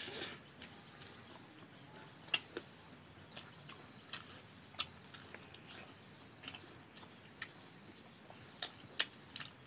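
Eating sounds: scattered sharp, wet mouth clicks and smacks of people chewing ripe mango and fish with rice, about ten over the stretch, over a faint steady high-pitched whine.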